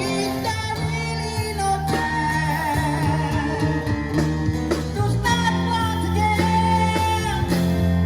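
A man singing a song to guitar accompaniment, holding long notes with vibrato.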